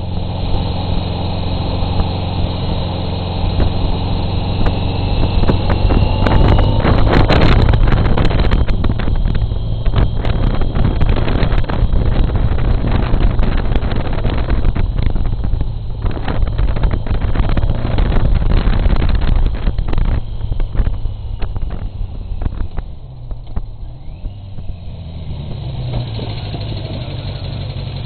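Motorcycle engine running at road speed, with wind buffeting and the taped-on camera rattling. Near the end the engine note rises as it accelerates.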